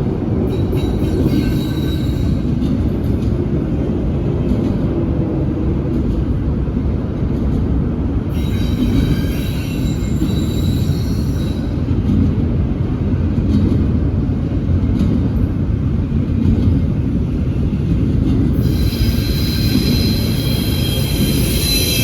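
Freight train rolling past close by: a steady heavy rumble of wheels and cars. High-pitched wheel squeal comes and goes, briefly near the start, for a few seconds around the middle, and again near the end.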